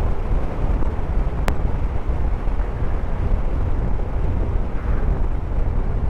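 Suzuki motorcycle riding at speed: steady wind rush and engine and road noise, with one sharp click about a second and a half in.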